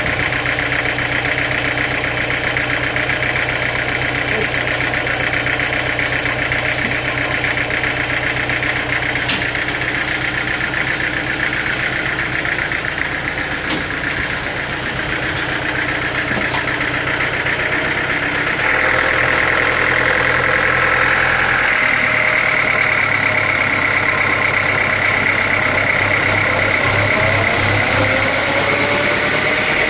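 Sawmill machinery running steadily with an engine-like drone. About two-thirds of the way in it gets slightly louder and brighter, and near the end a faint whine slowly rises in pitch.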